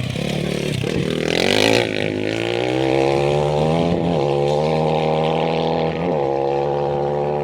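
A rally vehicle's engine revving hard under acceleration. Its pitch climbs over the first two seconds, then holds high with brief dips about four and six seconds in.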